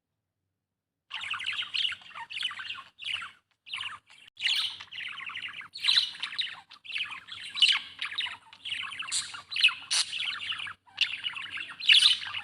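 Budgerigar chirping and warbling in quick, dense chatter broken by short pauses, starting about a second in.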